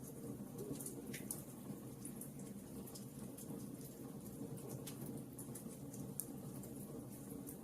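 Wood fire burning in a fireplace: frequent small crackles and snaps over a steady low rush of the flames.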